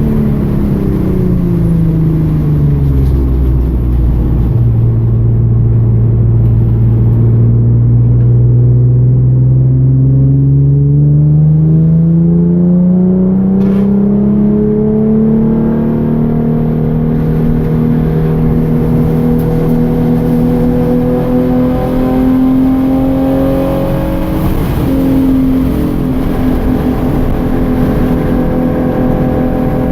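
2013 Hyundai Genesis Coupe's 3.8-litre V6 running under load on track. The revs fall over the first few seconds, stay low briefly, then climb slowly for about ten seconds and hold steady, with a short dip and recovery about twenty-five seconds in.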